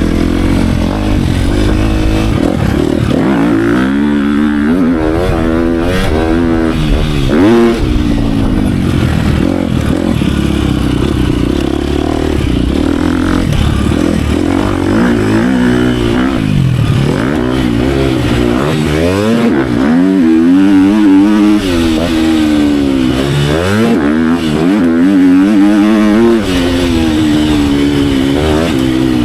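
Dirt bike engine being ridden hard on a motocross track, its pitch rising and falling over and over as the rider opens and closes the throttle and shifts through the gears.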